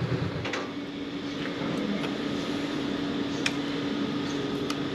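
Steady vehicle noise with a constant hum, broken by a few sharp clicks.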